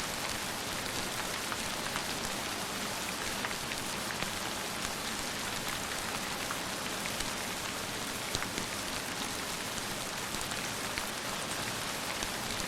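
Steady heavy rain falling on a surface, an even hiss with scattered sharp drop ticks.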